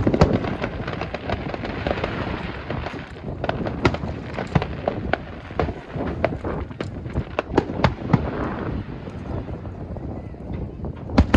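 Fireworks display: a rapid, irregular series of sharp bangs and crackles, several a second, over a continuous rumble, with a louder bang near the start and another near the end.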